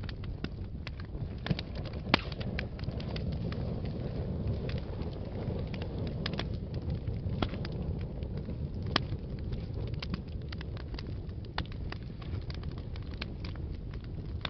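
Wood fire burning in a fireplace: a steady low rumble of flames with frequent irregular crackles and pops, a few sharper ones standing out.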